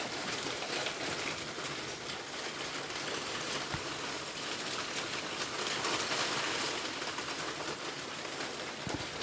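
Hail falling steadily in a storm: a dense, even hiss that swells a little about six seconds in, with a few single ticks.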